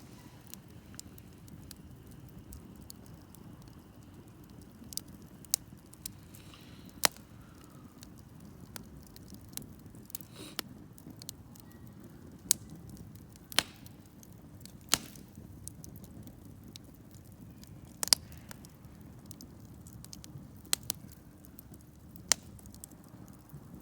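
Wood campfire burning: a steady low rustle of the flames with irregular sharp pops and crackles from the burning wood, about a dozen loud ones spread through.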